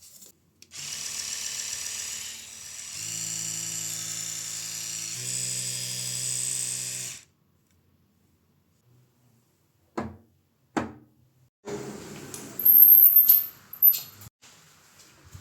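A small electric motor whirs steadily for about six seconds, stepping between speeds, then stops abruptly. Two sharp clicks and some handling rustle follow.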